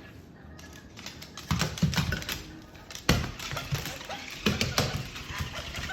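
Irregular clicks, taps and dull knocks of a Moluccan cockatoo handling and knocking its toys, with the sharpest knock about three seconds in.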